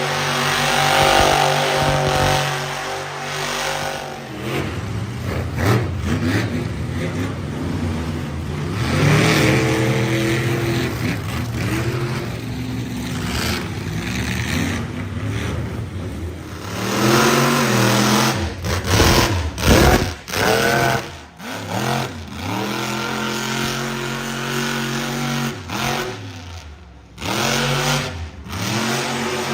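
Monster truck engine revving hard, its pitch climbing and falling again and again as the throttle is worked. The throttle is snapped shut and reopened several times after the middle and again near the end.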